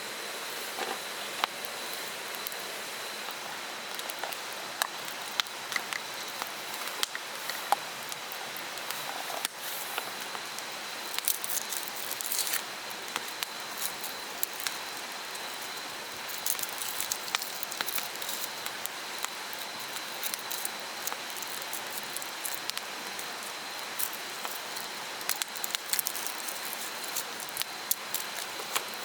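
Mountain stream running steadily, with irregular sharp crackles and ticks scattered throughout, thickest in the second half, over a faint steady high tone.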